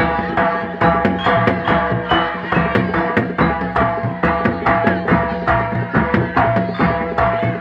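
A Javanese jaranan gamelan ensemble playing live: quick, even hand-drum strokes from the kendang over sustained ringing metallophone tones.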